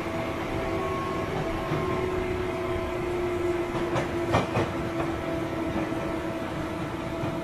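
Tobu 9000 series chopper-controlled electric train running, with a steady pitched whine from its traction equipment over the rumble of the wheels. This is the car's unusual 異音, unlike the usual chopper sound. A few sharp wheel clacks over rail joints come about four seconds in.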